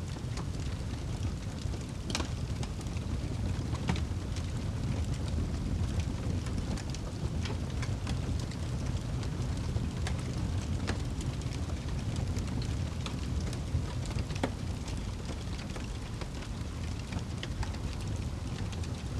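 Wood fire crackling, with irregular sharp pops and snaps scattered throughout, over a steady low rumble.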